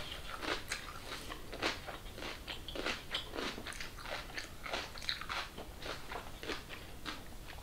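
Close-up chewing of a mouthful of rice and boiled vegetables, with short, irregular crunchy and wet mouth clicks several times a second.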